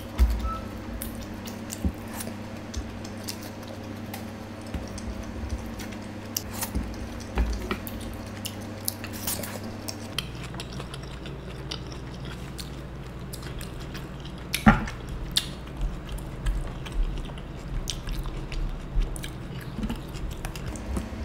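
Close-miked chewing and wet mouth sounds of someone eating rajma, rice and soya Manchurian by hand, with irregular small clicks as the fingers pick food from the trays. A sharper click comes about two-thirds of the way through.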